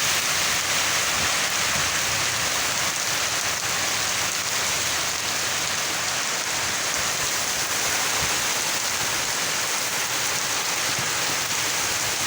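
Heavy rain pouring down steadily in a windstorm.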